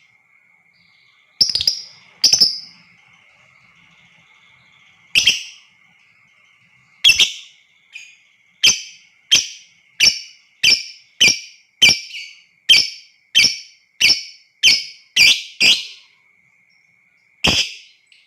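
Lovebird giving loud, shrill, piercing calls: a few spaced calls at first, then a run of about a dozen at roughly one and a half a second, and one more near the end. A faint, steady high tone sounds underneath.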